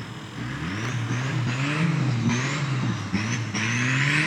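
Engine of a modified Fox-body Mustang revving up and falling back over and over while the car drifts. Each rise in revs carries a thin high whine that climbs with it.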